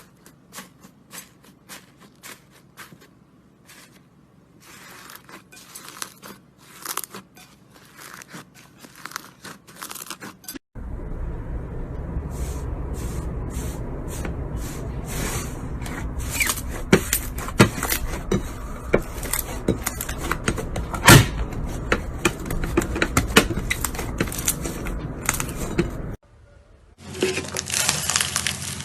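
Slime being squeezed and poked by hand: runs of small sticky clicks and crackling pops, quiet at first, then much louder and denser from about a third of the way in. There is a brief break near the end before another loud stretch.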